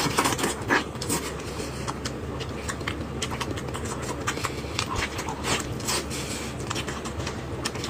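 Close-up eating sounds as pork knuckle is bitten and chewed: many short wet clicks and lip smacks, over a steady low hum.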